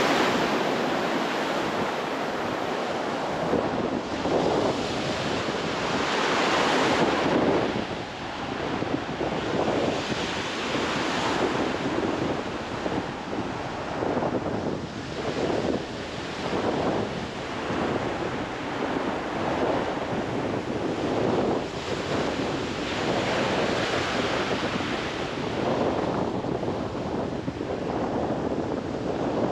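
Small sea waves breaking and washing up on a shore, swelling and fading every few seconds, with wind buffeting the microphone.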